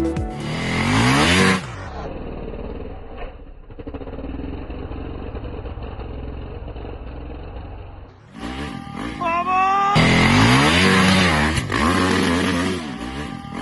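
Dirt bike engines revving hard, the pitch climbing again and again with the throttle and gear changes. In the middle there is a duller, muffled stretch of steady engine noise before hard revving resumes.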